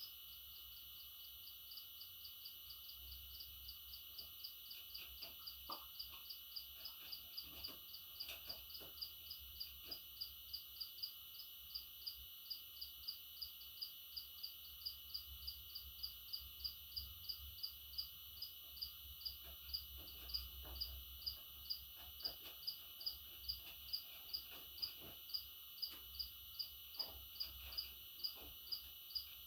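A short high chirp repeated evenly about twice a second, slowly growing louder, over a faint steady high hum and a few scattered soft clicks.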